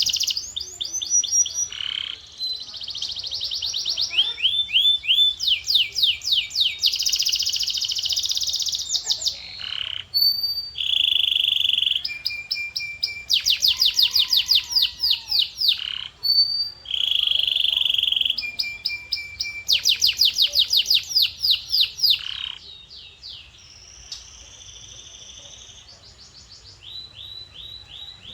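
Male domestic canary singing: fast trills of rapidly repeated notes in phrase after phrase, broken by a few held whistle-like notes. The song goes much softer for several seconds near the end, then a new trill starts.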